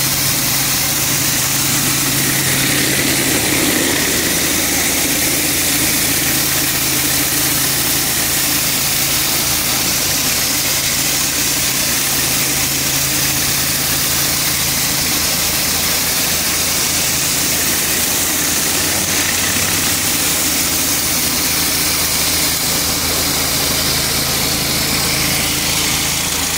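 Gas-engine pressure washer running steadily under a constant high hiss of pressurised water spraying onto concrete.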